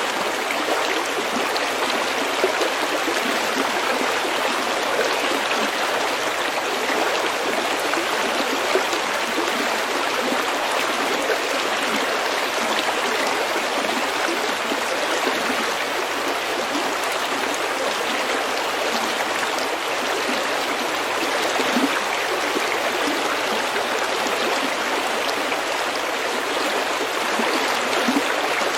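Stream water running steadily over stones, a continuous babbling rush with small splashes and gurgles.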